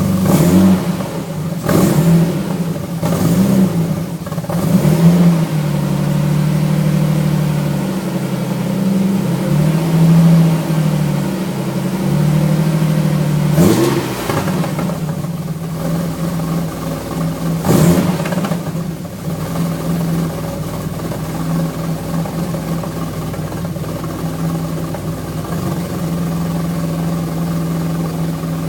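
Alfa Romeo V6 engine warming up after winter storage: it is blipped several times in quick succession at the start, holds a raised idle, is blipped twice more midway, then settles to a steady idle.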